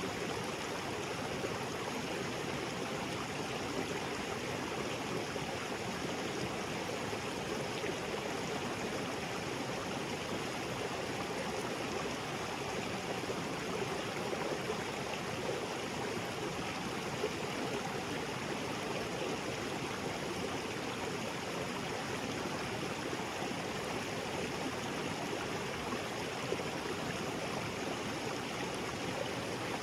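Small waterfall splashing into a rocky creek, a steady rush of falling and flowing water.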